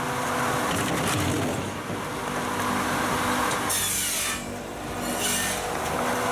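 Pezzolato TLF 450 firewood processor running steadily while cutting and splitting logs, with a brief loud hissing rush about four seconds in.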